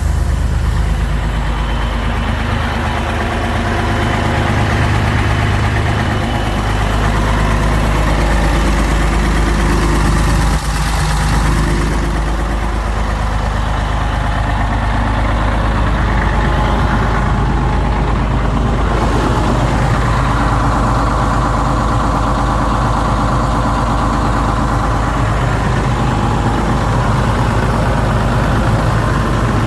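Scania 113 M 310 tipper truck's inline-six diesel engine idling steadily.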